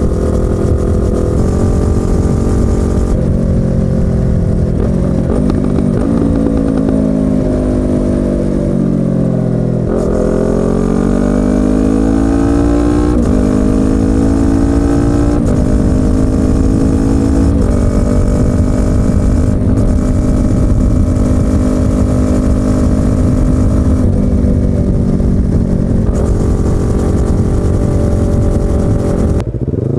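Yamaha YZF-R25's 249 cc parallel-twin engine and exhaust under way. The engine note steps and glides down to a low point about ten seconds in, climbs again through several steps like gear changes, then holds a steady cruise.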